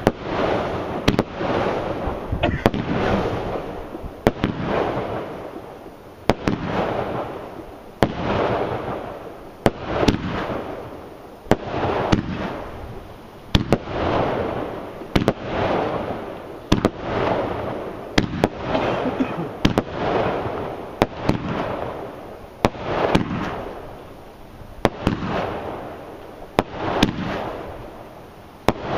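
Brothers Pyrotechnics Ariel Celebration 25-shot firework cake firing its 28mm shots one after another, about one every one to two seconds. Each shot is a sharp bang followed by a hissing, crackling tail that fades before the next.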